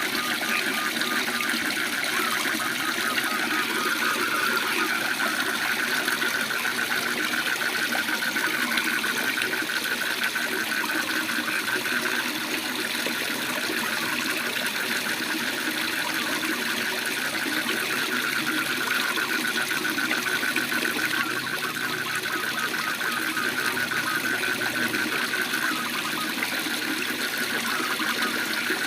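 Waterfall rushing steadily, with frogs calling in a fast, rattling pulsed trill throughout.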